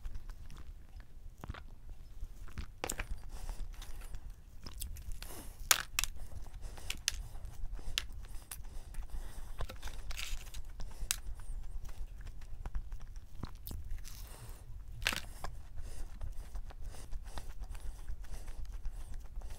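Close-miked chewing and mouth sounds of someone eating a glazed doughnut: scattered soft smacks and clicks over a steady low hum.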